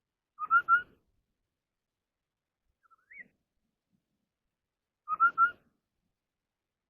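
Họa mi đất (scimitar babbler) calling: a quick phrase of three whistled notes, given twice about five seconds apart. A fainter rising whistle comes between the two phrases.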